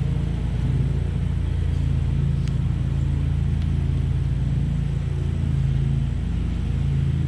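Honeybees humming from an opened hive: a steady low drone of many beating wings, with a couple of faint clicks in the middle.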